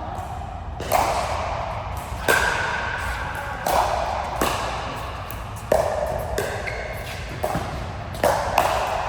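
A rally of sharp ball strikes, about eight hits roughly a second or so apart, each with a short ring that echoes in a large hall.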